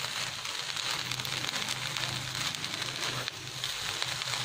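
Shrimp and pineapple fried rice sizzling and crackling steadily in a hot pan as it is stir-fried with a wooden spatula over high heat.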